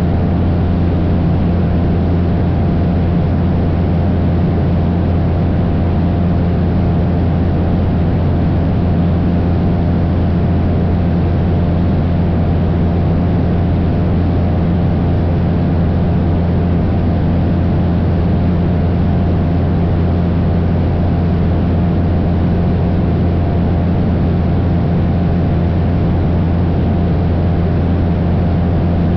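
Cessna 172's piston engine and propeller running with a steady, unchanging drone in level cruise, a deep hum under several steady higher tones and a rushing noise.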